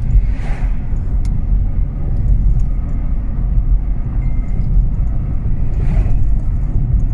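Road and engine noise inside a moving car's cabin: a steady low rumble, with two brief swells of hiss about half a second and six seconds in.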